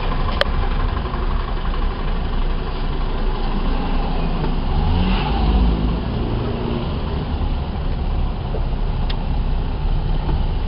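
Car driving, heard from inside the cabin: a steady low engine and road rumble, with the pitch briefly gliding up and down about five seconds in.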